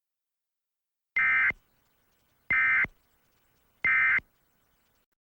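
Emergency Alert System end-of-message tones: three short, identical bursts of screechy digital data, about a second and a half apart, signalling that the warning broadcast has ended.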